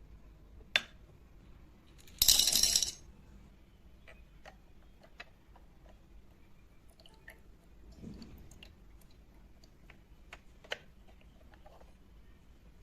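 Light clicks and taps of miniature cookware and utensils being handled, with a loud jingling rattle lasting under a second about two seconds in.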